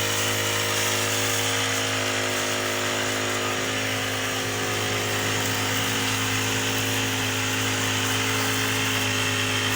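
Small electric motor running steadily at one unchanging speed, a constant hum with a buzz above it.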